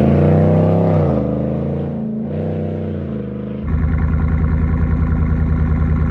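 Chevrolet Silverado Trail Boss V8 pickup engine and exhaust, revved up and down twice. About three and a half seconds in, it switches abruptly to a steady, evenly pulsing idle.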